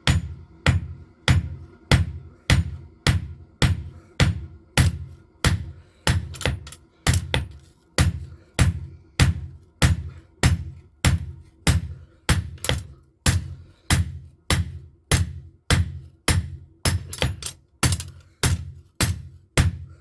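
Blacksmith's hammer forging a steel knife blade on an anvil in a steady rhythm: heavy blows about one and a half a second, with lighter, sharper taps between them.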